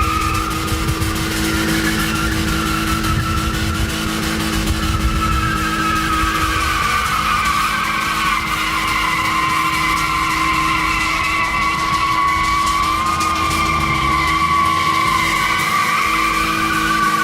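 Car tyres squealing in a long, steady wheelspin, the pitch of the squeal wavering slowly, with an engine running under it.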